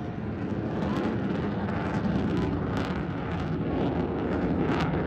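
Jet airliner's engines roaring as it flies past, the sound swelling and holding loud.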